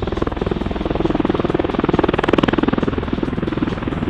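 MV-22 Osprey tiltrotor lifting off vertically in helicopter mode: its two big rotors beat fast and evenly over the whine of its turboshaft engines, swelling louder about two seconds in.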